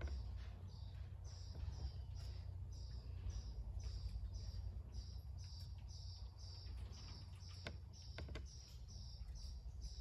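A small bird chirps over and over, one short high chirp about twice a second, above a steady low rumble. A couple of faint sharp clicks come about eight seconds in.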